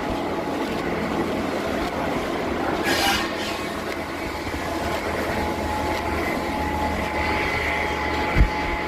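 Sawmill machinery running with a steady, dense mechanical noise. There is a short sharp burst about three seconds in, a steady whine comes in about halfway through, and a low thump comes near the end.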